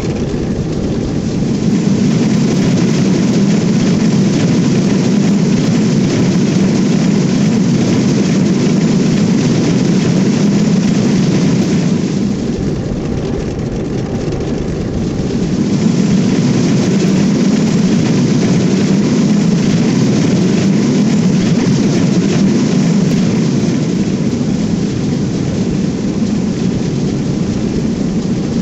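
Train running past, a loud steady rumble of wheels on rails that eases a little about halfway through and then swells again.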